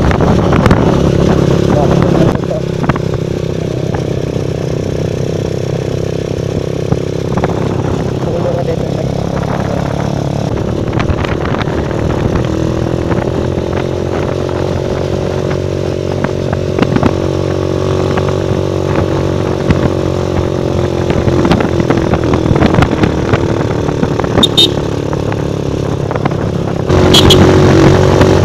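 Rusi Rango 125 motorcycle's single-cylinder engine running steadily while riding, heard from the rider's seat. It gets quieter about two seconds in and louder again near the end, with two brief high chirps near the end.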